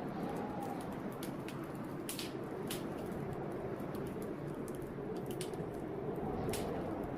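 Wood fire in a fireplace crackling with irregular sharp pops, over a steady blizzard wind that swells and faintly whistles.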